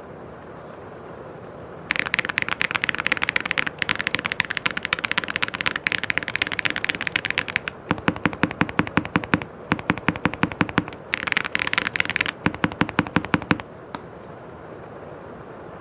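Mechanical keyboard being typed on in fast runs of key clacks, starting about two seconds in and stopping shortly before the end, with a brief pause around eleven seconds. The strokes in the later runs sound deeper.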